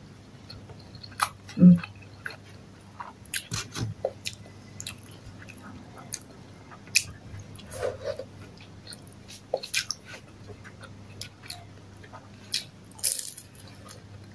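Close-miked chewing and mouth sounds of a person eating rice and sautéed bitter melon by hand: scattered wet smacks and small clicks. A louder, crisper bite comes near the end.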